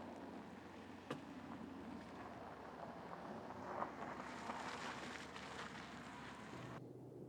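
Rushing, hissing noise of an aircraft passing overhead. It builds up and cuts off abruptly near the end, with a single click about a second in.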